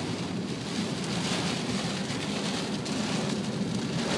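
Heavy rain pelting a car's roof and windshield, heard inside the moving car, with a steady rumble of road and engine noise underneath.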